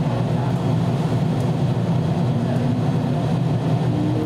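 413 series electric multiple unit running on the line, heard from inside the front car: a steady low rumble of wheels on rail and running gear, with a faint whine rising slightly in pitch near the end.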